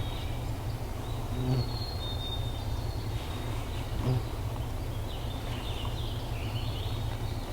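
Spring woodland ambience: small birds calling, with thin held high whistles in the first couple of seconds and warbling high notes later on, over a steady low rumble.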